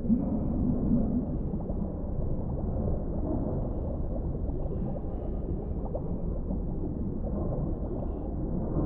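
Muffled underwater ambience of the deep sea: a steady low rumble of water with soft gurgling, and a brief louder swell in the first second.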